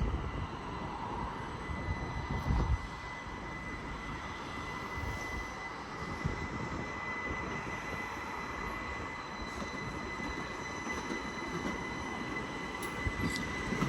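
Southeastern Class 375 Electrostar electric multiple unit on the move, a steady hum with a thin high whine held throughout, and a brief louder low rumble about two and a half seconds in.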